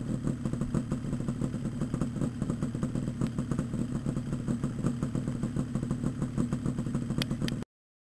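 Yamaha RD350LC two-stroke parallel twin idling through Micron expansion chambers with repacked silencers: a steady, rapid, even exhaust pulse. A couple of sharp clicks come just before the sound cuts off abruptly near the end.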